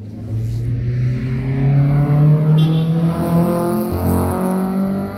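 Opel Corsa's four-cylinder engine running hard under acceleration, its pitch climbing steadily, with a break about four seconds in before it climbs again.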